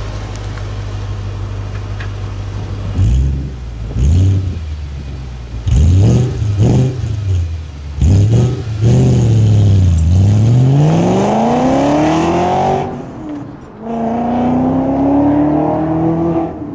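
Audi S4's 4.2-litre V8 through aftermarket long-tube headers and a non-resonated Milltek exhaust: a steady idle, then several quick throttle blips, then a long rev rising in pitch that drops off suddenly, followed by a second, gentler rising climb.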